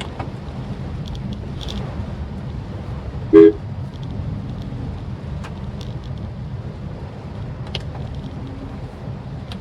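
Steady low road and engine rumble of a Maruti Suzuki Swift Dzire on the move, with one short, loud car-horn toot about three seconds in.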